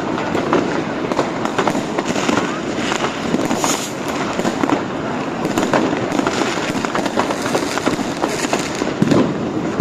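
Dense street fireworks and firecrackers going off without a break: many overlapping sharp bangs and crackles.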